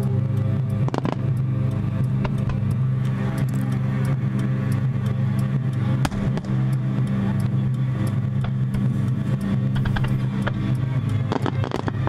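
A vehicle engine idles with a steady low hum. A few short, sharp fireworks pops cut through it, about a second in, around six seconds in, and near the end.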